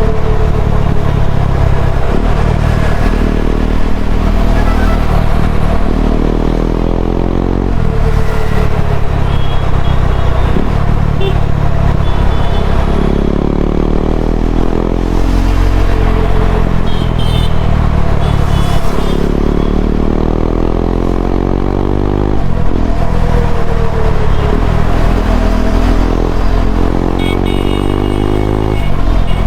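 KTM Duke 390 single-cylinder engine through an Akrapovic slip-on exhaust, the bike accelerating several times, each time the revs climbing through the gears and dropping back at every shift.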